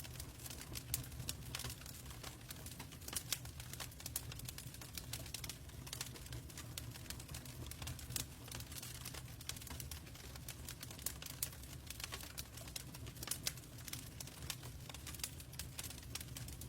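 Log fire in a fireplace crackling: irregular sharp pops and snaps, several a second, over a steady low rumble of burning.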